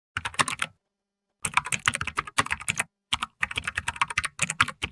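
Computer keyboard typing: bursts of rapid keystroke clicks, stopping and starting several times with short pauses in between.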